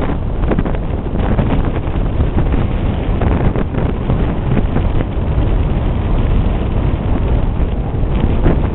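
Strong wind buffeting the microphone: a loud, continuous rumble that swells and dips unevenly.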